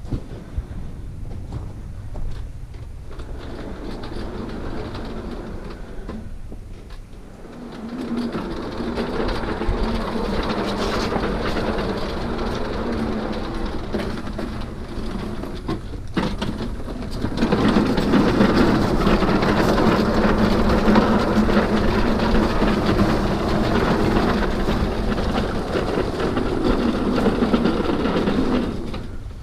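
Small engine of lawn equipment running steadily, growing louder about eight seconds in and again about seventeen seconds in, then cutting off just before the end.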